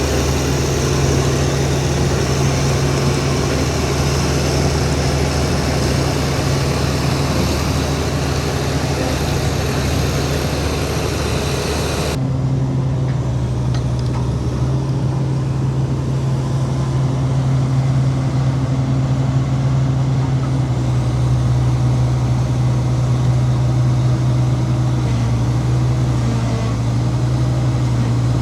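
Heavy diesel engine of construction machinery running steadily with a deep drone. About twelve seconds in, the higher noise above it drops off abruptly while the low engine drone carries on.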